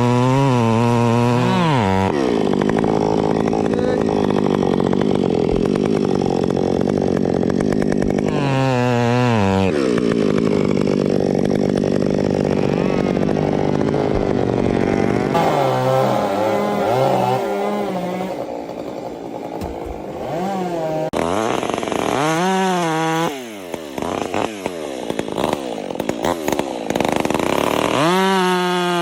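Chainsaw engine running hard while cutting wood, its pitch sagging under load and picking up again a couple of times. In the latter part it is revved up and down in quick blips, dropping briefly about two-thirds of the way through.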